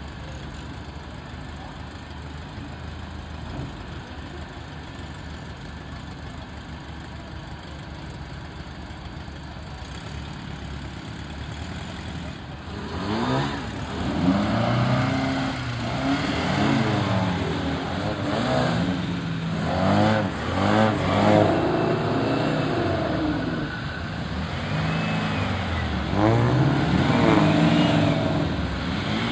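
Classic sports car engines idling steadily, then revving and pulling away one after another from about halfway through. Their pitch rises and falls with each blip of the throttle and change of gear as the cars drive past.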